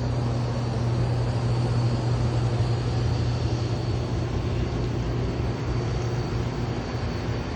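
First-generation Cummins turbo-diesel inline-six idling steadily, a constant low drone with no change in pitch.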